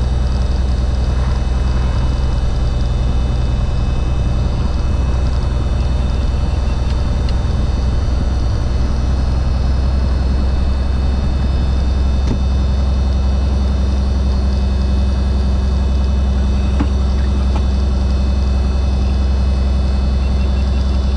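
1964 Cessna Skylane's six-cylinder piston engine and propeller running steadily: a constant, loud low drone with no breaks.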